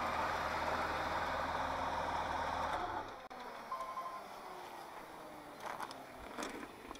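Jeep Cherokee XJ's 4.0-litre straight-six idling, with an exhaust manifold that the owner says is cracked and blowing, then switched off about three seconds in. A few faint clicks follow.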